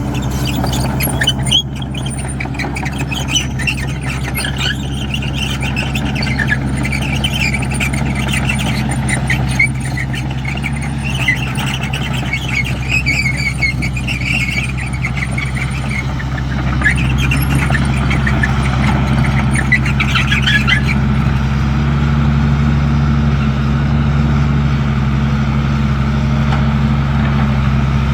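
Caterpillar 312 excavator's diesel engine running steadily under irregular high metallic squeals and scrapes that last until about two-thirds of the way through. The engine grows louder about 17 seconds in.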